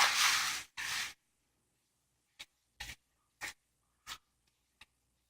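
Hands pressing and smoothing raw sausage meat over a bacon weave: a louder rush of rubbing noise in the first second, then a few short, soft squishing and rubbing sounds about half a second apart.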